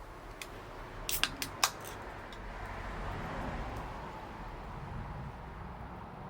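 Bonfire crackling: a quick run of four or five sharp pops about a second in, the last the loudest, over a steady hiss.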